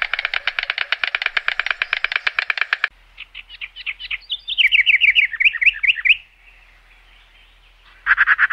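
White stork clattering its bill: a rapid, even rattle of about a dozen claps a second that stops about three seconds in. Then a songbird chirps a quick run of repeated falling notes for about three seconds, with a short burst of chirping near the end.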